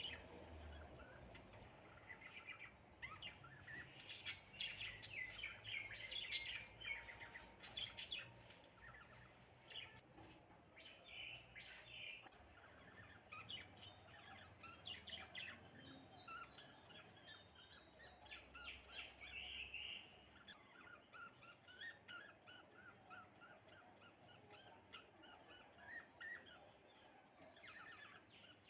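A flock of sparrows chirping, many short overlapping chirps, busiest and loudest in the first half, with a scatter of sharp clicks in the first dozen seconds.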